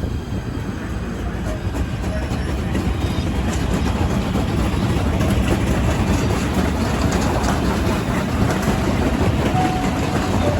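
Train running past on the tracks: a steady rumble of wheels and cars.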